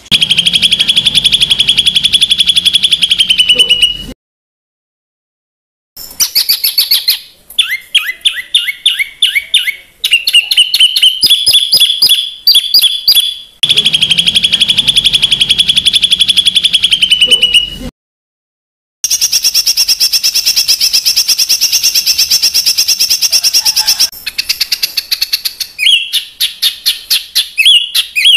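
Recorded songbird song with harsh, fast trills and runs of short repeated rising notes, the kind of rough 'tembakan' phrases used to tutor competition songbirds. It cuts to dead silence twice for a second or two, about four seconds in and again about eighteen seconds in, and the same long trill recurs.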